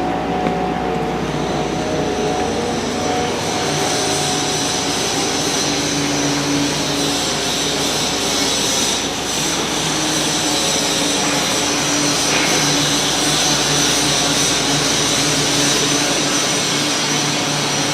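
Steady, loud mechanical roar with several held whining tones, typical of running machinery such as a large fan, blower or compressor.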